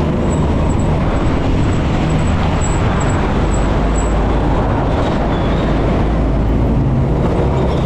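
Steady rush of wind buffeting the microphone, with road and traffic noise, while riding a mountain bike.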